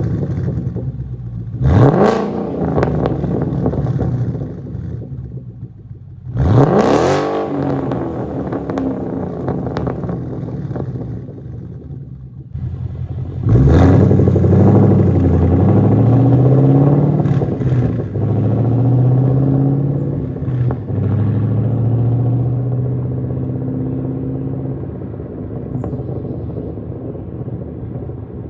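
Ford Mustang GT's 5.0 V8 with the resonators cut out, through factory headers, cats and H-pipe and aftermarket axle-backs. Two quick blips of the throttle that rise sharply and fall, about 2 and 6.5 seconds in. About 13.5 seconds in comes a loud, hard acceleration whose pitch climbs and drops several times, then it steadies and fades.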